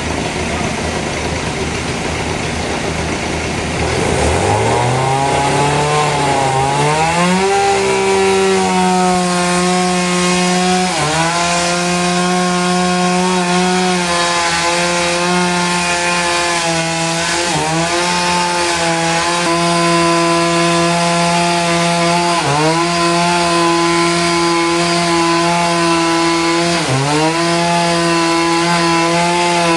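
A powered saw cutting a trembesi log. Its motor speeds up over a few seconds into a steady high whine, then bogs down briefly and recovers four times as the blade takes the load of the cut.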